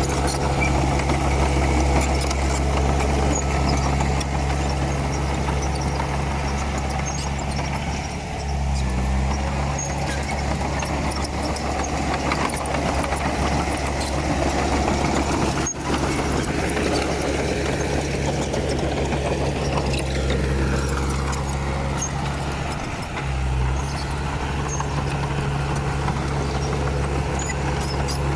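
Diesel engine of a Komatsu D31P bulldozer running steadily, its pitch shifting briefly twice as the load or throttle changes.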